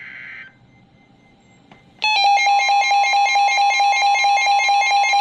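Weather alert radio going off for a severe thunderstorm warning. A short buzzy burst of data tones ends right at the start, then about two seconds in a loud, rapidly pulsing electronic alarm tone starts and holds.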